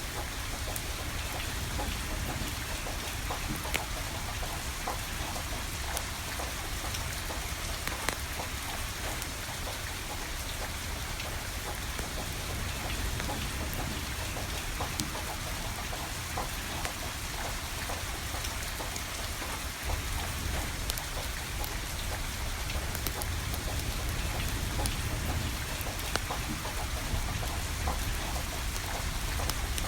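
Steady rain falling, with a wood fire crackling: scattered sharp pops over the even hiss of the rain.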